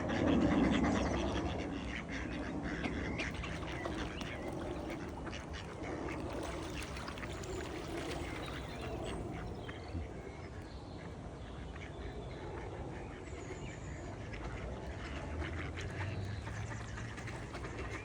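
White Pekin duck quacking, loudest in the first second, then softer on and off.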